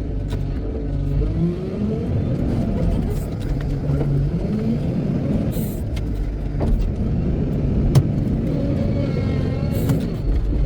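Heavy diesel engine revving up and down as it works under load, with a few sharp clicks and two short hisses.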